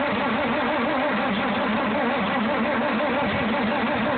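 The starter cranking the cold engine of a 1960 Farmall 460 tractor with the throttle wide open and the choke pushed in, a steady churn rising and falling with each compression stroke, with the engine not catching. The wide-open throttle is meant to clear a possibly flooded engine.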